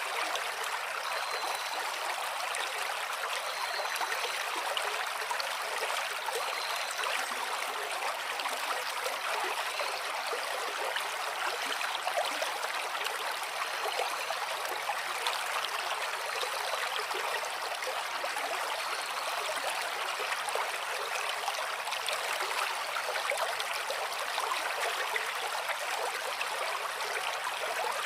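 Gently flowing water, a steady babbling rush that is light and hissy, with no deep rumble.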